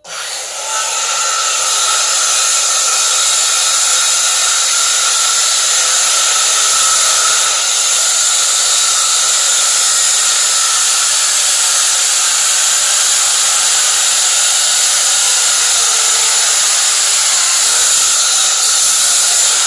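Cordless circular saw running steadily, loud with a high whine, cutting into wood; it stops abruptly near the end as its battery dies.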